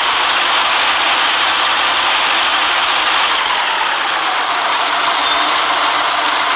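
A city bus in motion: a steady, even rush of engine and road noise, with the hiss of tyres on a wet road.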